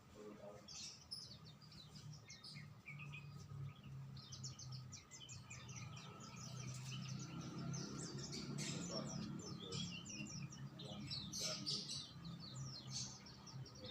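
Songbirds chirping and twittering in quick trilled runs of short high notes, busier in the second half, over a faint steady low hum.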